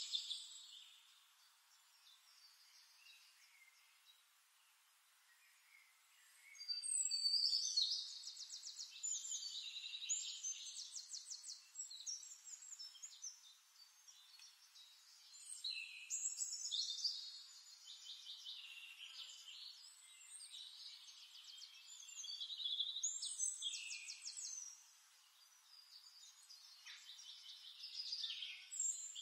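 A songbird singing long, high-pitched phrases of rapid trills, several in a row with short pauses between. The first few seconds are quiet before the singing starts.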